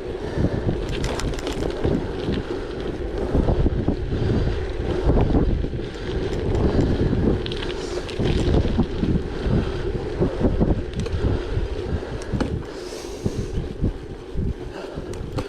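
Wind buffeting the microphone of a moving gravel bike: a heavy, uneven rumble, with scattered short clicks and rattles from the bike and its tyres.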